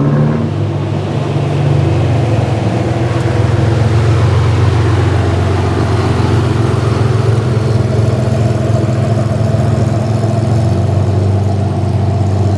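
Car engine running steadily at low revs, with a deep even hum and a rise in road noise in the middle.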